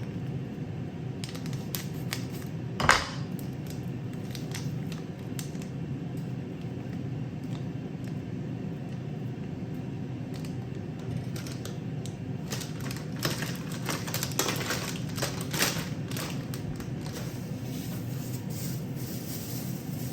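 Scattered light clicks and taps over a steady low hum, with one sharper knock about three seconds in and a busier run of clicks past the middle.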